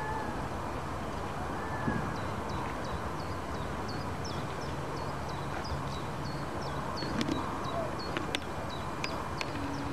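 A small bird calling in the garden, a quick series of short high chirps, roughly two to three a second, over steady outdoor background hiss. A few sharp clicks come near the end.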